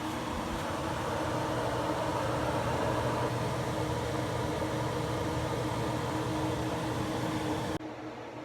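Steady running hum and rush inside a moving bus, with a low engine drone; it drops suddenly to a quieter, duller hum near the end.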